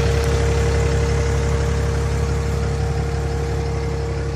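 Cummins 6.7-litre inline-six turbo diesel in a 2008 Ram 2500 idling steadily.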